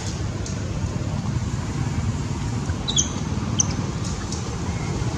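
A few brief, high-pitched animal squeaks about three seconds in, over a steady low rumble.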